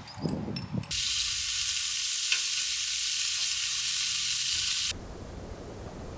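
Food sizzling in a hot pan: a steady, loud hiss that starts abruptly about a second in and cuts off sharply about four seconds later.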